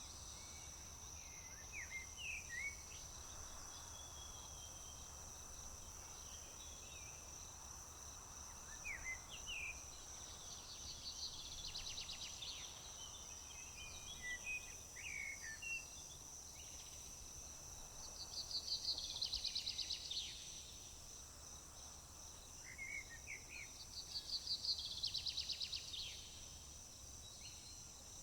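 Insects keep up one steady high-pitched trill while small birds give short scattered chirps. Three times a bird sings a rapid trill of about two seconds, the loudest sounds here.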